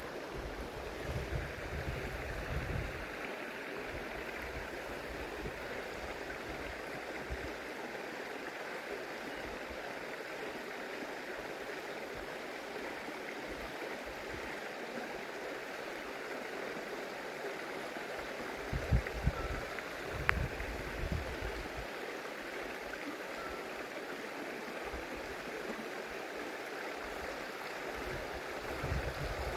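Stream water running steadily over rocks, with a few low rumbles near the start and about two-thirds of the way through, and a single sharp click shortly after.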